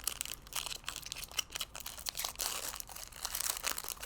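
Plastic trading-card packaging crinkling and rustling, with many small clicks and scrapes as cards are handled.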